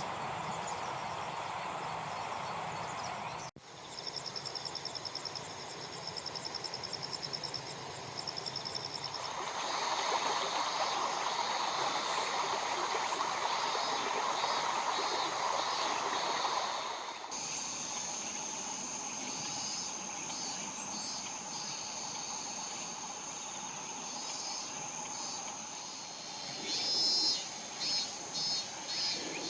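Insects chirping and trilling in several spliced takes: steady high-pitched trills with rapid pulsed chirps over them. A steady rushing noise fills the middle stretch, and a few louder chirp bursts come near the end.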